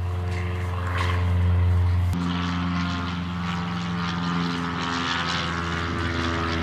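Small propeller plane's engine droning steadily, with a sudden change in its pitch about two seconds in.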